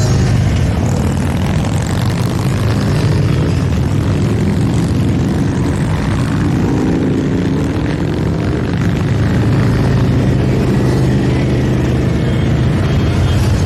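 A steady stream of motorcycles riding past, many engines running together in a loud, continuous rumble, with individual bikes' pitch sliding as they go by around the middle.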